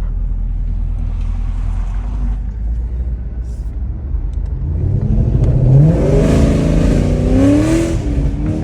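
Chevrolet Camaro SS V8 engine under way, a steady low rumble at first, then about five seconds in the driver accelerates hard and the revs climb in several pulls, dropping back and rising again. The engine is running on freshly installed spark plugs and wires.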